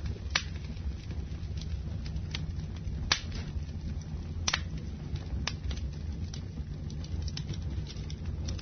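Wood fire burning in a fireplace: a steady low rumble of the flames with scattered sharp crackles and pops, a few louder snaps among them.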